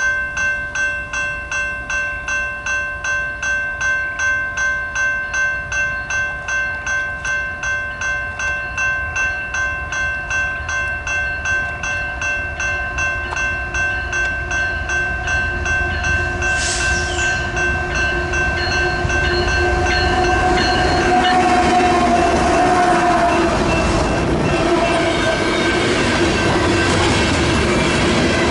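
Grade crossing warning bell ringing steadily, about two strokes a second. About two-thirds of the way through, a CN freight train arrives: its horn sounds, and the noise of the train grows loud. Near the end, loaded potash hopper cars roll past close by, their wheels clattering over the rails.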